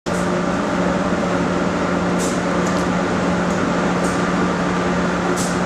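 Steady mechanical hum and noise with a constant low drone, starting abruptly; a few short faint hisses sit on top of it.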